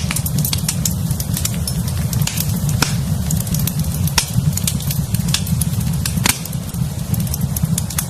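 Wood fire in a fireplace crackling, with irregular sharp pops, a few louder ones, over a steady low rumble.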